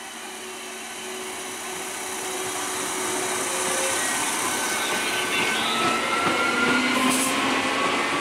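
ICF electric multiple unit train running past at close range, its rolling and motor noise growing steadily louder as the carriages go by.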